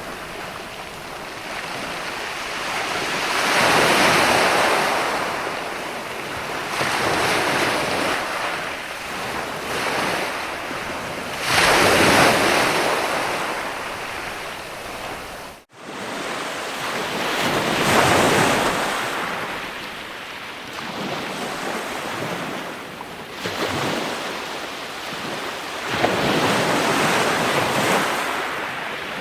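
Ocean waves washing in and out, the surf swelling and fading every few seconds. It cuts out for an instant about halfway through.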